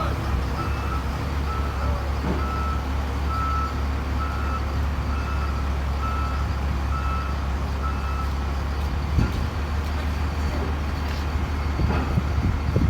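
Motor grader (G9138F) diesel engine running under a steady low hum while its reversing alarm beeps a little faster than once a second as it backs up onto a truck. The beeping fades out about two-thirds of the way through, and a few short knocks follow near the end.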